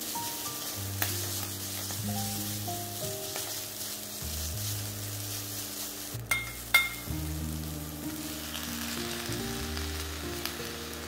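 Egg noodles, pork belly and vegetables sizzling as they are stir-fried in a hot iron pan. Two sharp metal clinks come about six and a half seconds in.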